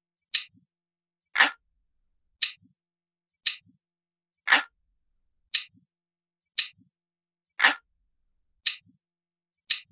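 Crisp, glass-like clock ticking, one tick a second, every third tick louder and fuller than the two between.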